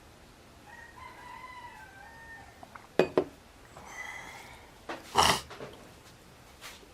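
A rooster crowing: one drawn-out call in the first half. It is followed by two sharp clicks, a short call, and a brief loud noisy burst a little after the midpoint.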